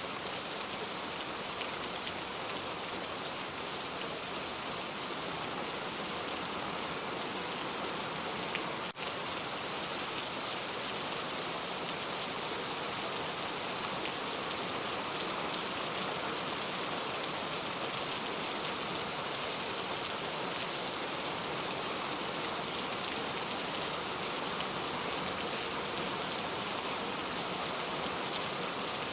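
Steady rain falling, an even hiss of many drops, with a momentary dip in level about nine seconds in.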